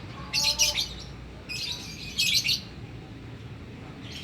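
Pet songbird chirping in two bursts of rapid high notes, the second starting about a second after the first ends.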